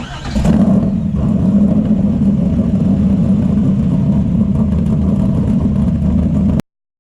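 A car engine rises in revs just after the start, then runs loud and steady. It cuts off abruptly near the end.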